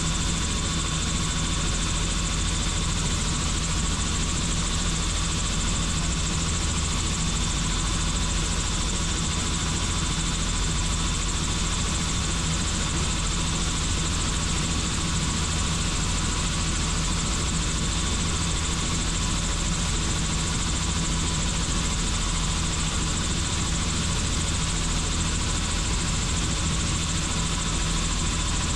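Helicopter in flight: the rotor and turbine make a steady, unchanging drone, a low rumble with a thin high whine on top.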